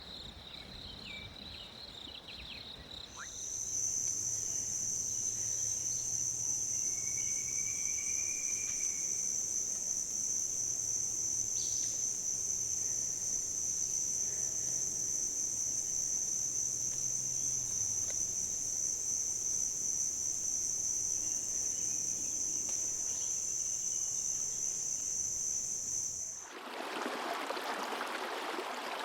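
Rainforest insects: soft chirping at first, then about three seconds in a loud, steady, high-pitched insect drone takes over and holds unbroken. Near the end it cuts suddenly to the rushing of a stream.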